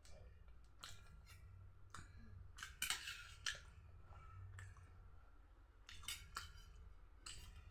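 Faint eating sounds: irregular sharp clicks and crackles of someone chewing and handling puri, with a cluster of louder clicks about three seconds in.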